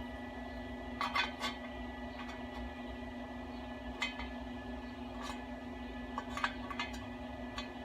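Scattered light metallic clinks and taps, metal parts knocking together about half a dozen times, over a steady electrical hum.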